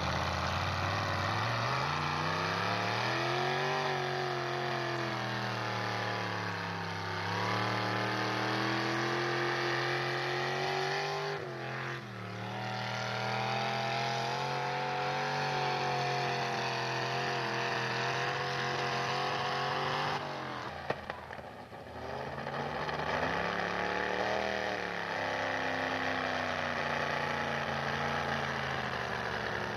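Pulling truck's engine running hard under load, its pitch climbing and sagging again and again as the revs change. The sound dips briefly twice, about twelve and twenty-one seconds in.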